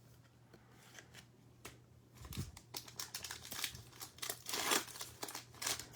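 A foil-wrapped Select football card pack torn open and its wrapper crinkled: a few light clicks at first, then dense crinkling from about two seconds in.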